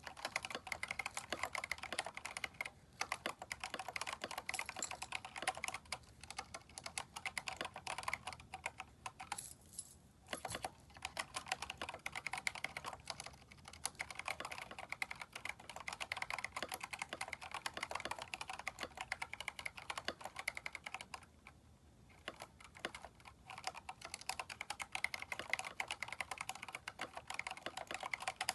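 Continuous typing on a Keychron K4 mechanical keyboard fitted with aftermarket keycaps: a dense run of keystroke clicks, broken by short pauses about a third of the way in and again about three-quarters through.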